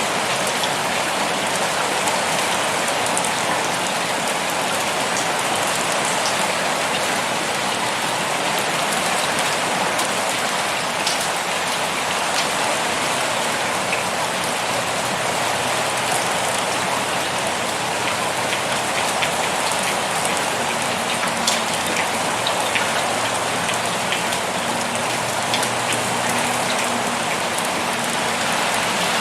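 Heavy pouring rain: a steady, dense hiss of rain with scattered sharper drop ticks.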